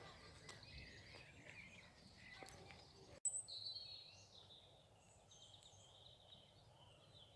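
Faint songbirds chirping and singing over a low outdoor hum, with a brief pop where the recording cuts about three seconds in. After the cut, trilled bird song carries on.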